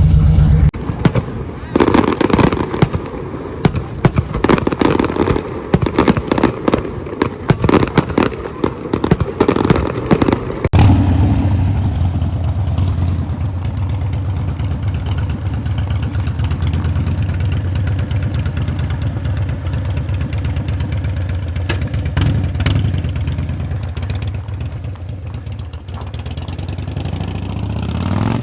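Choppy, irregular crackling and rattling for about the first ten seconds. Then, after a sudden cut, a Harley-Davidson V-twin motorcycle engine runs steadily at cruising speed and fades away at the end.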